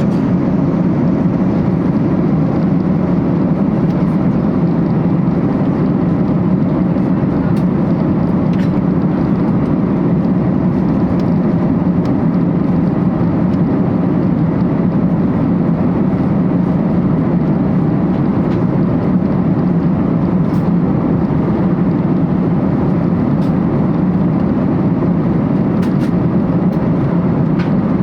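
Steady drone of an airliner cabin in flight: engine and airflow noise, loud and unchanging, with a low hum.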